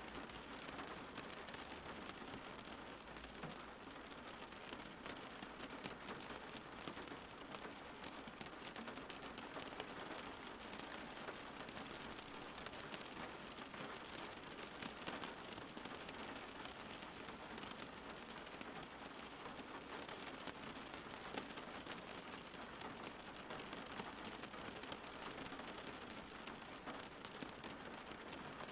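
Steady rain falling: an even hiss of many drops with fine individual drop ticks.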